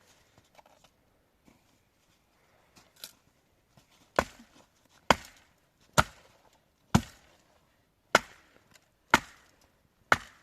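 Repeated sharp chopping strikes on wood: a few faint knocks, then from about four seconds in seven hard blows at a steady pace of about one a second.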